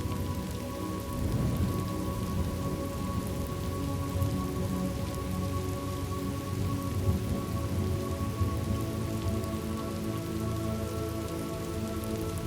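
Steady rain falling, with sustained low tones underneath.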